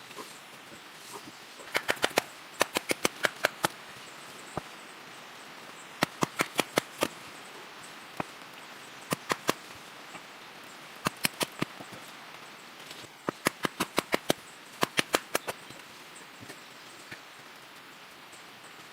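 Sharp knocks in quick runs of three to seven strokes, repeated several times, over a steady hiss.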